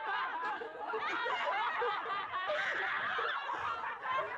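Many high-pitched voices giggling and chattering over one another in a dense, unbroken jumble, as if from a processed recording.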